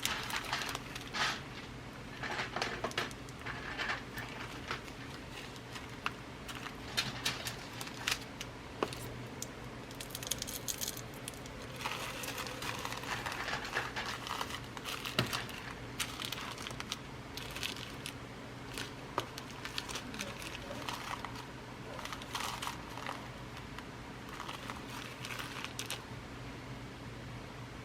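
Small plastic bags of glass seed beads being handled and rummaged through: crinkling and rustling of the plastic, with many small clicks of beads and packets.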